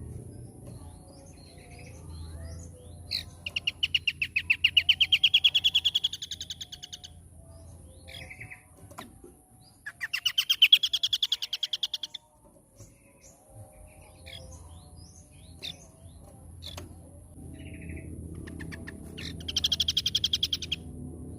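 Scaly-crowned babbler singing: three loud bursts of rapid repeated notes, each a fast trill rising in pitch and lasting two to four seconds, with scattered short chirps in the pauses between them.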